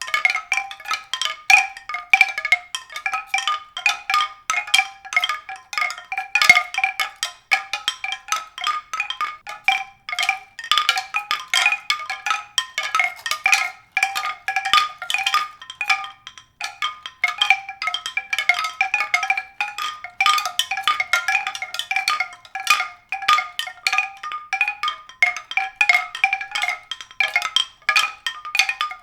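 Struck pitched percussion, a steady stream of quick, overlapping bell-like notes several to the second, with no pause.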